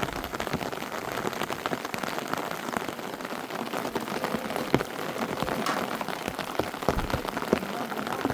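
Steady rain, with many separate drops striking a surface close by among the general hiss of rainfall.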